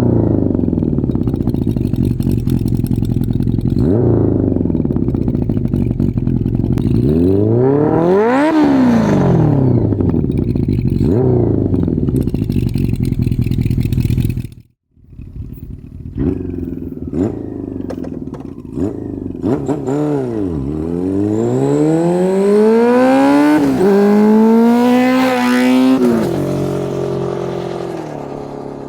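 Honda CB400 Four's inline-four engine through a Yoshimura aftermarket exhaust, running and revving. A sharp rev rises and falls about a third of the way in. After a brief break near the middle, it pulls up through the gears, with two shifts, and fades away near the end.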